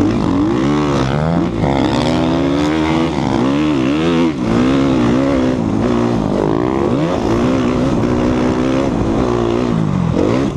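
2014 Suzuki RM-Z250 four-stroke single-cylinder dirt bike engine revving up and down while being ridden, its pitch rising and falling with the throttle. There are brief throttle chops about one and a half and about four seconds in.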